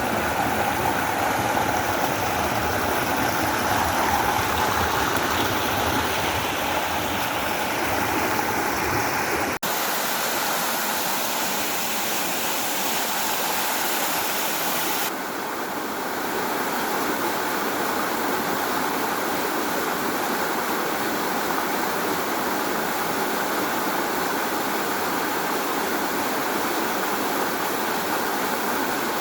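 Waterfall in a forest, water rushing and splashing in a steady, loud roar. It breaks off for an instant about a third of the way in and shifts tone abruptly about halfway, where the footage is cut.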